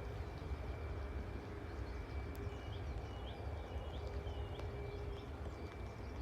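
A bird gives a run of about six short, rising chirps, roughly two a second, in the middle of the stretch, over a steady low rumble and a faint steady high whine.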